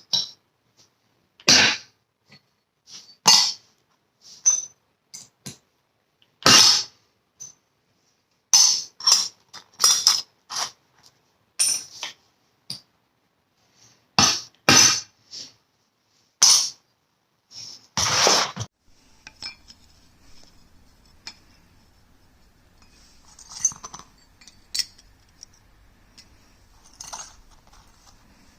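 Steel pieces and metalworking tools clinking and knocking in irregular sharp strikes, a dozen or so in quick succession. About eighteen seconds in they stop, leaving only faint scattered clicks.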